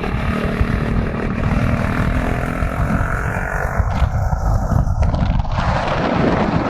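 Motorcycle engine running during a ride, with wind buffeting the microphone; about five and a half seconds in the wind noise turns harsher and louder.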